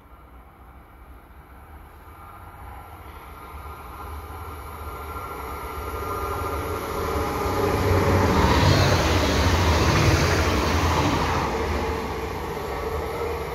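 A regional passenger train approaching and running through the station without stopping: the rumble of wheels on rail grows steadily, is loudest as it passes about eight to eleven seconds in, then fades as it pulls away.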